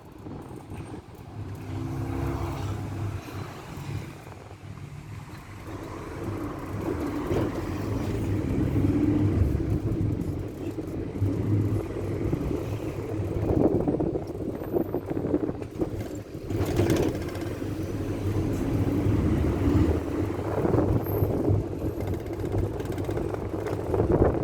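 Old Ford route minibus driving, heard from inside the cabin: a steady low engine rumble and road noise, getting louder about a quarter of the way in as the bus picks up speed.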